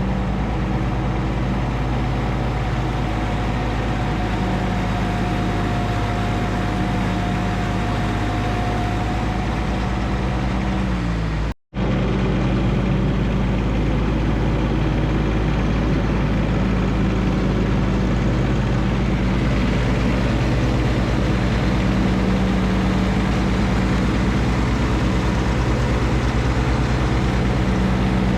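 John Deere 1025R compact tractor's three-cylinder diesel running steadily while mowing with the 60-inch mid-mount deck. The sound drops out for a split second about halfway through.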